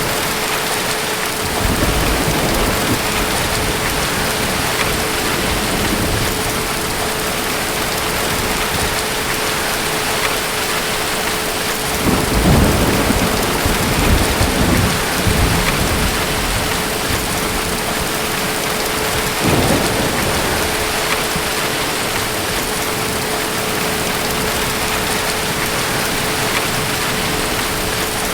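Steady rain of a thunderstorm with rolls of distant thunder. There is a low rumble about two seconds in, a longer, louder roll about twelve seconds in that lasts several seconds, and a short one near twenty seconds.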